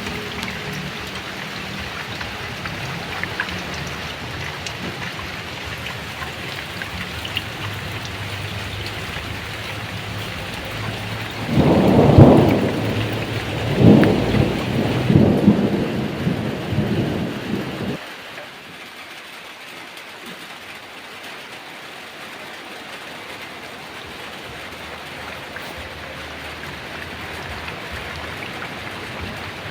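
Heavy rain falling steadily, with a rolling thunderclap about twelve seconds in that swells several times over some six seconds and then cuts off suddenly. The rain continues more quietly afterwards.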